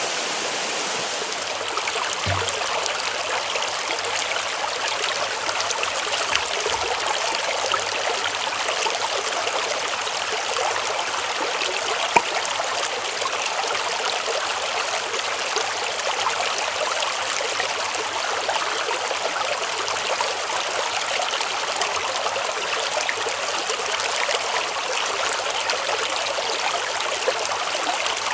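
A mountain headwater stream running over rocks: a steady, even rush of flowing water with small splashes and gurgles throughout. A single sharp click comes about twelve seconds in.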